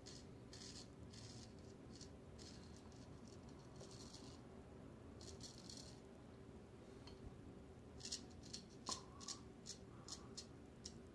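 Razor scraping through lather and stubble in repeated short strokes, a last pass against the grain. It is faint, with longer strokes at first and quicker, sharper ones near the end.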